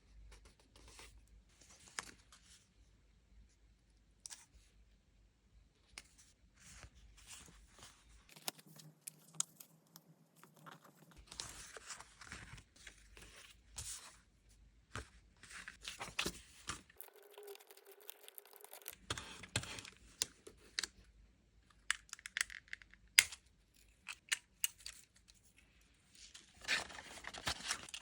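Stickers and paper being peeled, torn and handled on a desk: short tearing and rustling strokes with scattered small taps and clicks. A sharp tap comes late on, and a longer rustle follows near the end.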